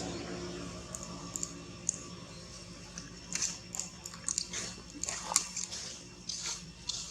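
Irregular small crisp crunches and clicks, sparse at first and busier from about three seconds in, over a faint low hum.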